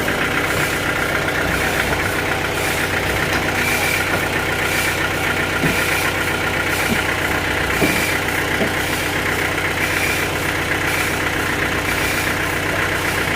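Sawmill engine running steadily at an even speed, with no cutting load heard.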